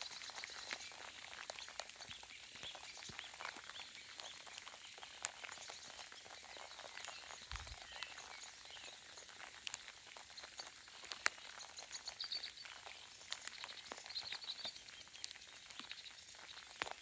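Soft rain falling as scattered light drop ticks, with faint bird chirps and song, clearest near the end.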